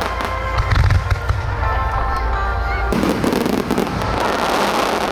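Aerial fireworks bursting over music played through loudspeakers, with low booms about a second in. About three seconds in the music cuts off, and a dense, steady rush of firework noise takes over.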